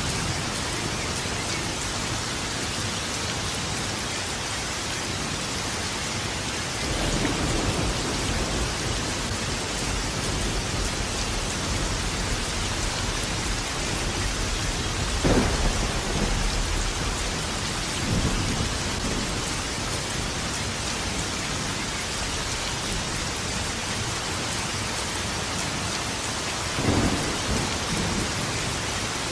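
Steady heavy rain with thunder rumbling several times: a long rumble building about a quarter of the way in, a sharper clap about halfway, then two more rolls, the last near the end.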